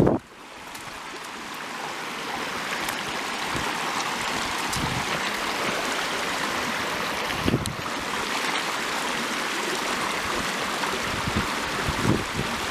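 Mountain headwater stream running over rocks: a steady rush of water that fades in over the first couple of seconds, with a few faint knocks.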